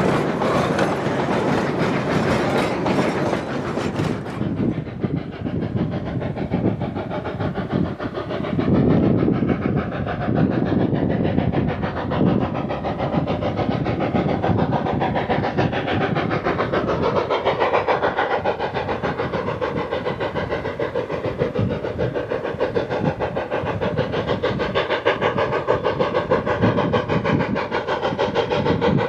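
Narrow-gauge steam train running along the track, with the clatter of wheels over the rails.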